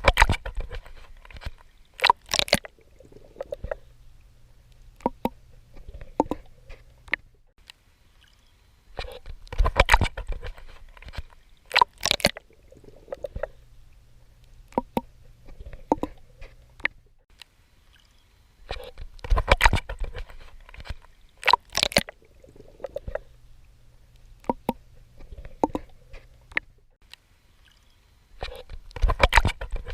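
Swimming strokes splashing in water: a cluster of sharp splashes every nine to ten seconds, with a faint low hum between them. The pattern repeats evenly, like a loop.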